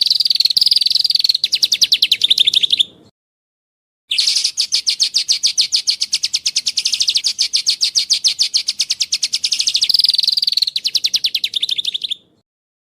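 Songbird singing fast, rattling trills of evenly repeated high notes, about a dozen a second. They come in two long bouts, the second about eight seconds long, separated by about a second of silence. Each bout drops slightly in pitch near its end.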